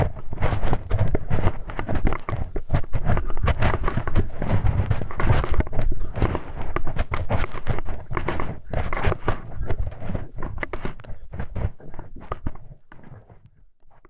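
Close-miked ear-cleaning sounds: a hex key scraping, rubbing and clicking against a dummy-ear microphone, making dense, irregular crackles and knocks with a low rumble. The sounds thin out and fade away near the end.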